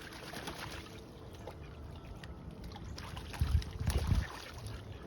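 Ducks splashing and dabbling in water as they bathe and preen, with water trickling, and a few dull low thumps about three and a half to four seconds in.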